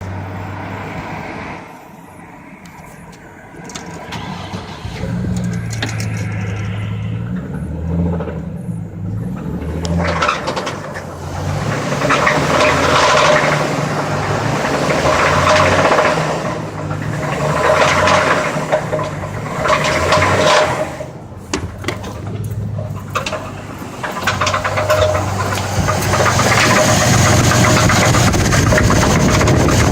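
2008 Chevrolet TrailBlazer's 4.2L inline-six running with a rod knock, revved up several times and then held at a higher speed near the end. The knock comes from a spun rod bearing on cylinder #3, the result of oil changes stretched to 15,000 miles.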